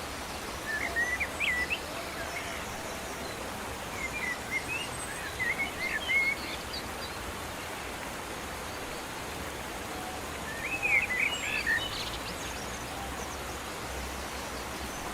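Small birds chirping in three short bursts of quick chirps over a steady background hiss of outdoor noise.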